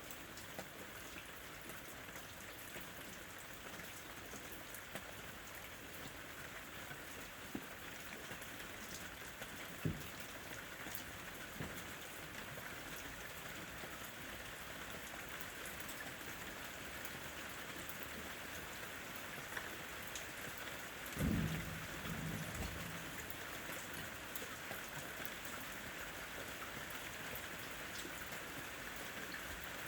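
Steady rain falling and pattering on surfaces, with a short low rumble of thunder about two-thirds of the way through.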